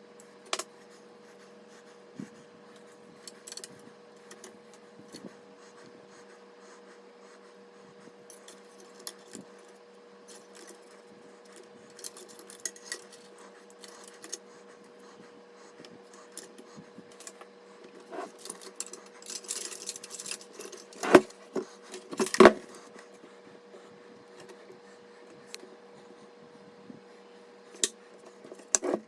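Hands working on PC parts: scattered small clicks, a brief rustle and two sharp knocks about two thirds of the way in, over a faint steady hum.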